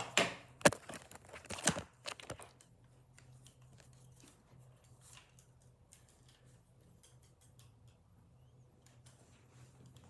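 Handling noise from a small clip-on microphone being picked up and set down: a few sharp knocks and rustles in the first two seconds or so, then faint scattered clicks over a low steady hum.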